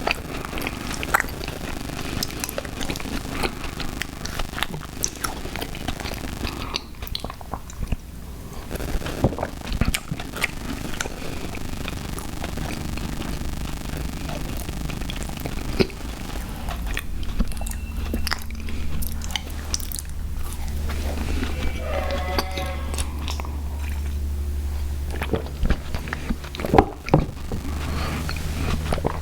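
Close-miked chewing and biting of sour gummy worms cereal, with many short wet clicks from the mouth.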